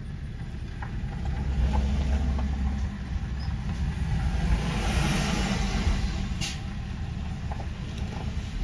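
Car engine and tyre road noise, a steady low rumble from a car being driven slowly, swelling louder about four seconds in and easing off again, with a single sharp click near the end.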